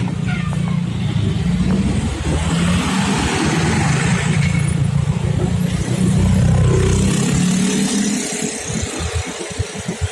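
Motor vehicle engine running close by, loud through the first seven seconds or so and then fading away.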